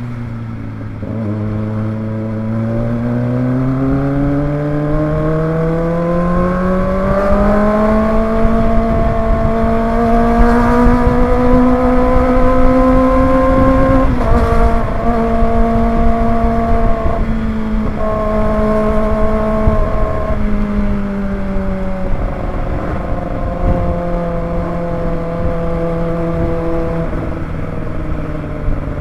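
Kawasaki ZX-25R's 249 cc inline-four engine under way, its pitch climbing steadily through the first half as it accelerates. About halfway through the pitch drops suddenly at an upshift, then holds and eases down with a few more small drops.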